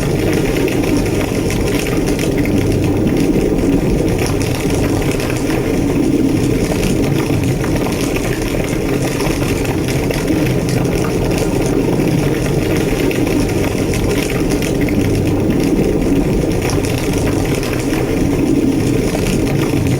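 Large structure fire burning with a steady, deep roar and scattered crackles.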